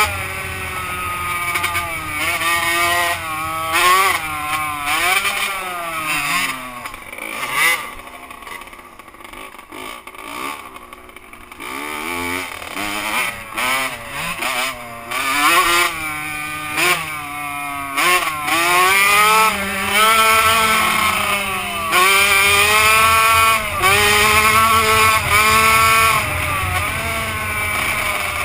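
Two-stroke motocross bike engine revving up and down as it is ridden, its pitch rising and falling with throttle and gear changes. It drops quieter for a few seconds in the middle, then gives repeated short bursts of throttle near the end.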